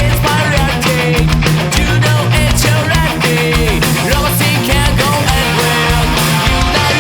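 Melodic punk rock song: a band playing loud, driving drums, bass and electric guitar, with bending melodic lines over it.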